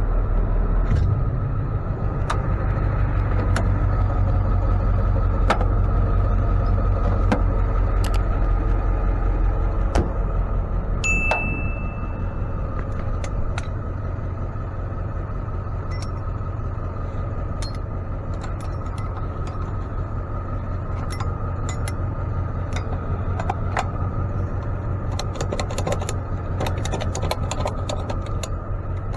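A tow truck's engine running with a steady low rumble, with scattered rattles and clicks and a short high chime about eleven seconds in.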